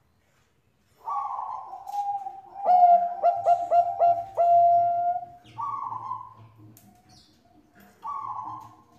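Zebra dove (perkutut Bangkok) cooing: a falling opening note, a quick run of about five short clipped notes ending in a longer held note, then two shorter falling notes a few seconds apart.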